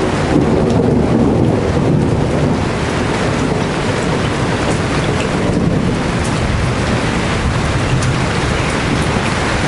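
Heavy tropical rain pouring steadily, with a low rumble of thunder that is strongest in the first couple of seconds and then eases; a few sharp drips stand out near the end.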